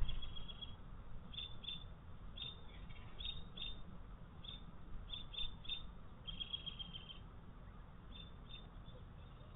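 Small songbirds chirping: short high chirps at an irregular pace, with a brief rapid trill about six seconds in.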